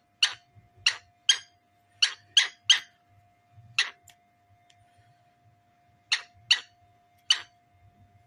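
Cockatiel giving short, sharp, high chirps, about eleven in clusters of two or three, with a pause of about two seconds in the middle.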